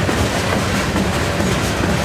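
Freight train moving slowly on the rails: two diesel locomotives running with a steady low drone, with boxcars rolling along behind them.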